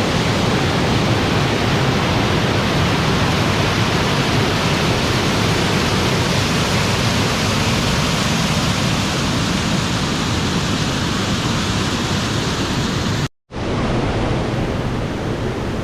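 Waterfall pouring: a loud, steady rush of falling water. The sound drops out for a split second about 13 seconds in, then carries on.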